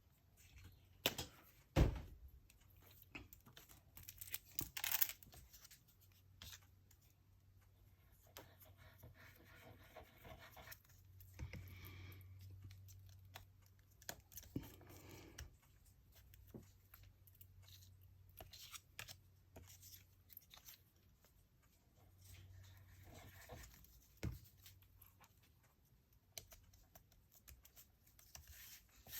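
Paper being handled during gluing, with tearing sounds, soft rustling and scattered light taps and clicks.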